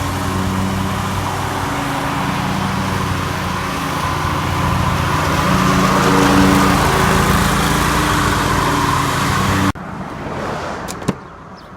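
A motor engine running steadily under load, with a strong hiss over a low hum, cutting off abruptly near the end.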